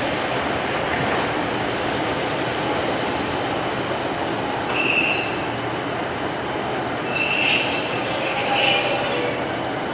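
Class 143 Pacer diesel railbuses rolling in, with steady running noise and high-pitched wheel squeal. The squeal comes in a short bout about five seconds in, then a longer one from about seven seconds until just before the end.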